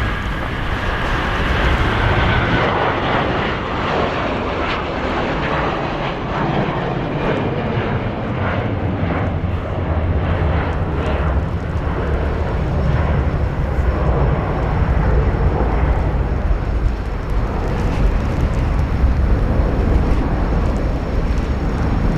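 Jet airliner's engines running nearby: a high whine falling in pitch over the first few seconds, over a broad rushing noise, then a deep rumble that grows stronger in the second half.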